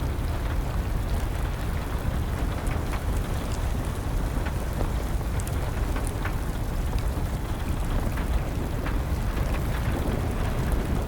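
Steady rain with a deep low rumble, and a crackling wood fire giving scattered sharp pops and snaps a few times a second.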